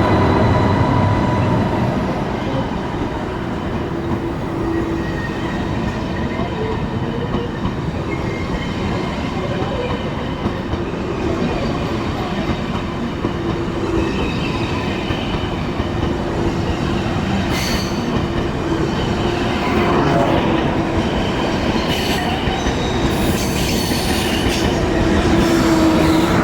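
A train running on the rails: a steady rumble with a held whine and squeal from the wheels, and several sharp clicks in the last third.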